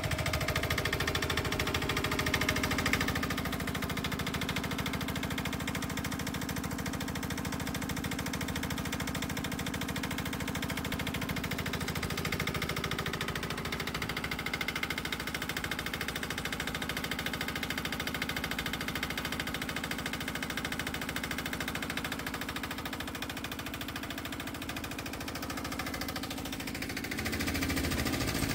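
Petter AC1Z single-cylinder diesel engine in a Gibson Model D tractor running steadily with an even knocking beat. Its speed changes near the end.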